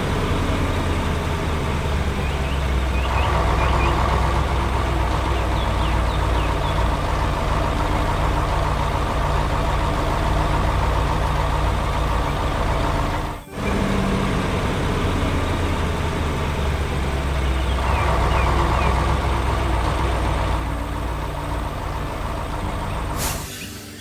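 Heavy diesel engine of a construction vehicle running steadily with a deep rumble. It cuts out for an instant about halfway through and starts again, with faint high chirps over it.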